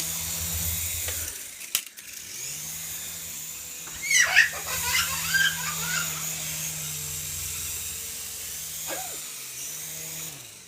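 Small toy RC helicopter's electric motor and rotor whirring with a steady high whine. It dips briefly about a second and a half in, picks up again, and winds down near the end. A small child squeals about four seconds in.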